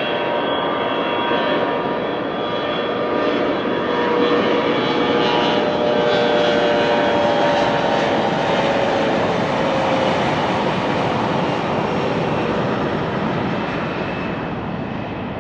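CRJ-900 regional jet's twin GE CF34 turbofans at takeoff power: a loud jet roar with a whine whose tones slide lower in pitch as the aircraft goes by. The sound swells through the middle and fades toward the end as the jet moves away.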